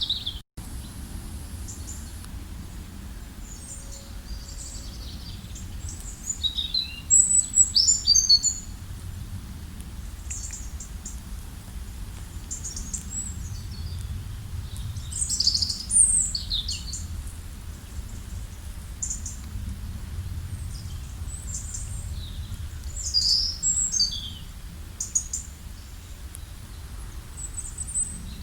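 Wild birds chirping and trilling in short clusters, loudest about a quarter of the way in and again near the middle, over a steady low rumble. The sound drops out briefly about half a second in.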